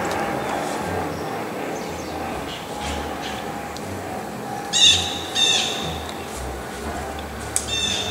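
A bird calling loudly twice about five seconds in, the calls about half a second apart, then calling again near the end, over a steady background hiss.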